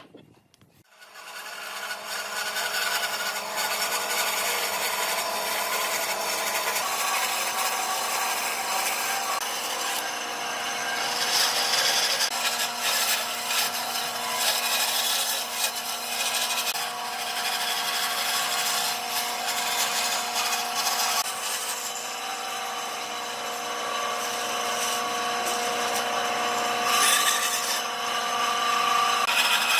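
Electric power tool running steadily against wood, starting about a second in.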